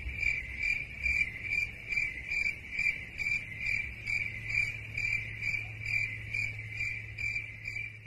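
Crickets chirping, the stock sound effect used to mark an awkward silence: an even run of high chirps, about two or three a second, over a faint low hum.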